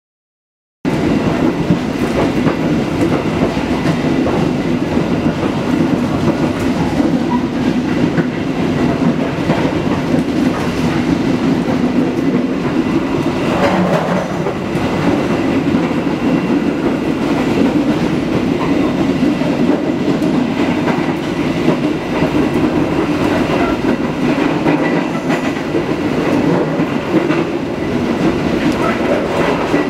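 Steady rumble of a moving train heard inside a 2016 PT INKA executive passenger coach, its wheels running over the rails. It starts abruptly about a second in.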